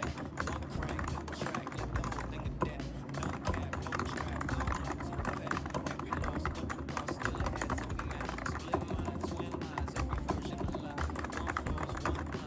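Fast, continuous typing on a computer keyboard, many quick key clicks without a pause, with background music underneath.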